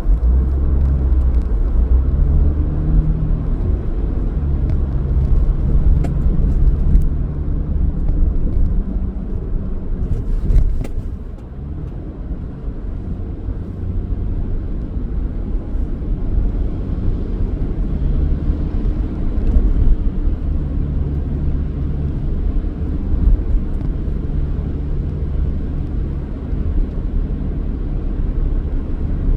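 A car's engine and road rumble while driving, low and steady, with the engine note shifting. The level eases off about twelve seconds in, then picks up again, and a few brief clicks come before the dip.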